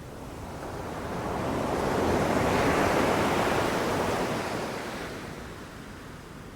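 Ocean waves breaking on a beach: one wave swells in a rush of surf for about three seconds, then washes back and fades.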